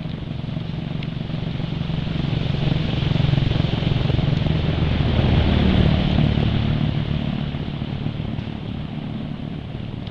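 A motor vehicle's engine passing by: it grows louder to a peak about five seconds in, then fades away.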